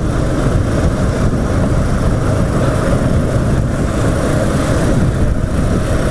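Motorcycle engine running steadily as it rides along, with a steady rush of road and wind noise.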